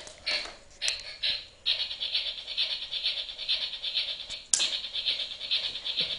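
Child's ride-on toy train rattling as it moves, first in short spurts, then steadily from about a second and a half in, with one sharp click partway through.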